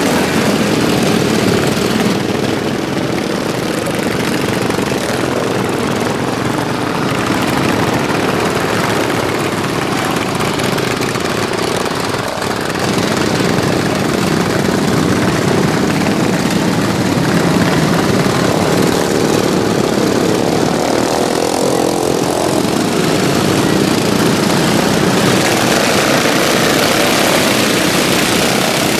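Racing lawnmowers with stock single-cylinder OHV engines running at high revs, their steady buzzing engine notes swelling and fading as they pass on the track.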